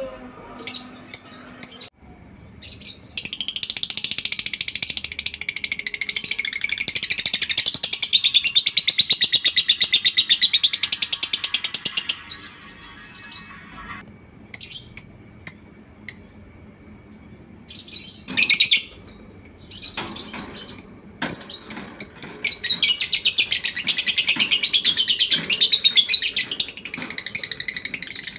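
Lovebird 'ngekek': long, very fast, high-pitched chattering trills, each held for several seconds, with sharp single chirps in the gaps between. There are two long trills, the first starting about three seconds in and the second near the end.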